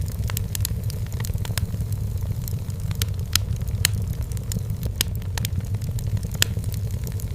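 Wood fire in a fireplace crackling, with irregular sharp pops and snaps over a steady low roar of the flames.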